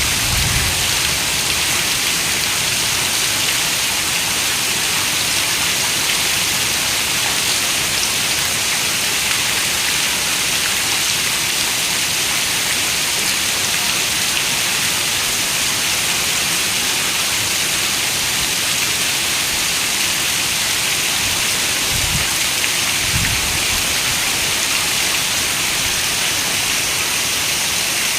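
Steady rain falling, an even dense hiss with no let-up. Twice, late on, a brief low thud rises under it.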